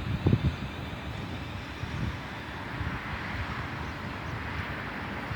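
Class 450 Desiro electric multiple unit running through the station, a steady rumble of wheels on rail. Wind buffets the microphone in the first half second.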